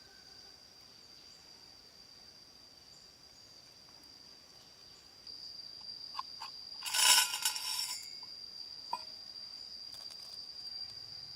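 Steady high-pitched insect drone, cricket-like, growing louder about five seconds in. A brief scraping rustle comes about seven seconds in, with a few light clicks around it.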